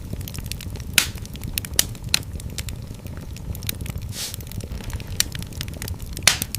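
Fire in a fireplace crackling and popping over a steady low rumble of flames. There are sharp louder pops about a second in and near the end, and a brief hiss a little past the middle.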